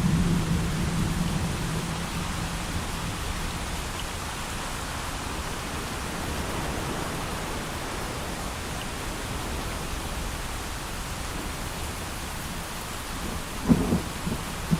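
Steady heavy rain with a low thunder rumble that fades out over the first couple of seconds, then two short, sharp low thumps near the end.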